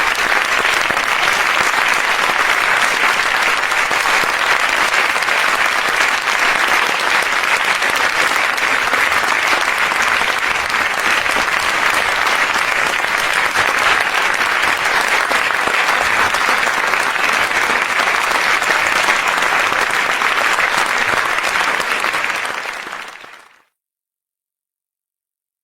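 Large crowd applauding: dense, steady clapping that fades out quickly about 22 seconds in, ending in silence.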